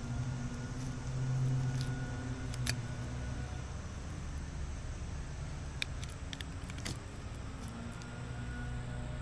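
An engine running steadily with a low hum, with a few sharp clicks or rattles about a third and two thirds of the way through.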